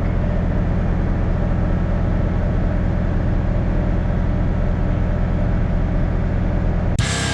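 The 7120 tractor's diesel engine running steadily with a low drone. Near the end it cuts off abruptly and heavy rock music comes in.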